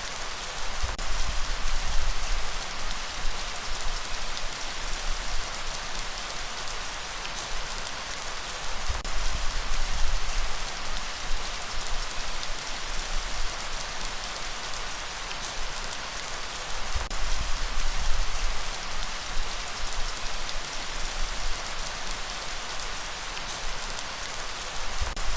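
Steady rain falling, a dense even hiss with scattered single drops ticking through it. A low rumble swells and fades about every eight seconds underneath.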